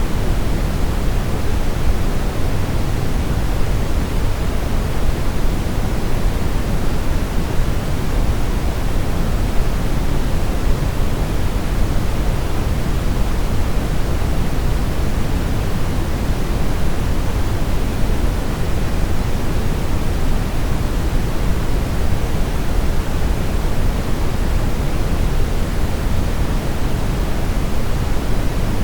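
Steady brown noise: an even, unchanging rushing hiss weighted toward the bass, strongest at the low end and fading toward the treble.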